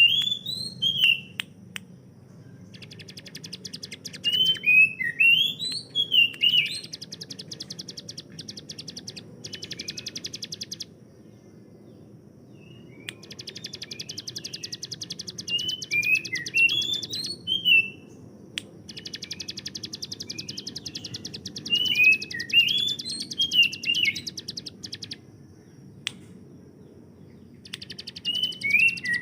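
Ciblek gunung, a prinia, singing: bouts of a very fast, high, machine-gun-like rattling trill mixed with quick rising and falling chirps. Each bout lasts a few seconds and is followed by a short pause, over a faint steady low hum.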